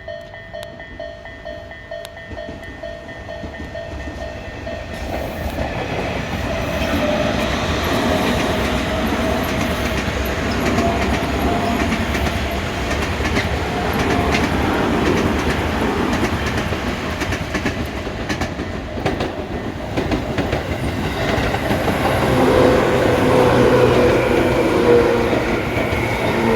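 A Japanese level crossing alarm is ringing in quick, evenly pulsed tones. Then a Tobu Tojo Line electric train passes over the crossing, its wheels clicking rapidly over the rail joints as the rumble builds. The train noise swells again near the end.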